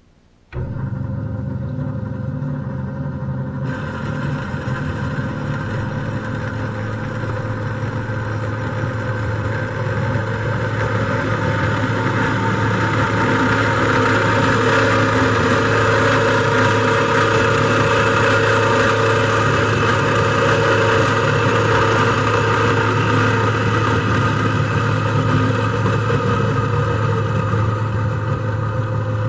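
Metal band saw switched on about half a second in and running steadily with a low hum. A few seconds in, a higher rasping sound of the blade cutting through metal stock joins it and grows louder toward the middle.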